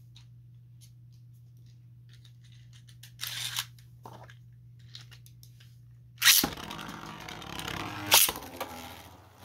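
A low steady hum with a few small plastic clicks while the next round is readied. About six seconds in, 3D-printed Beyblade spinning tops launch into the stadium with a sharp start, then whir, scrape and clash against each other, with one loud hit near the end.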